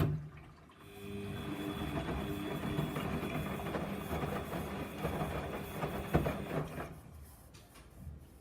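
Samsung washing machine on a 95 °C boil wash: a thump as the running drum motor stops, then about a second later water starts rushing through the machine with a steady whine for about six seconds. It stops, and a few faint clicks follow.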